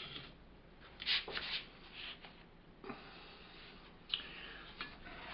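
Scraping and rubbing of hand work with filler along a shelf edge, with a few sharp clicks and taps among it.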